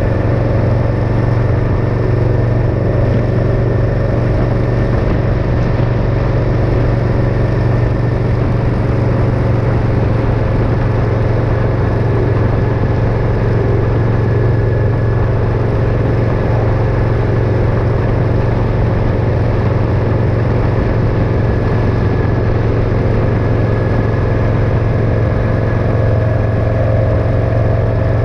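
Motorcycle engine running steadily under way, a constant low drone with road noise and no change in revs.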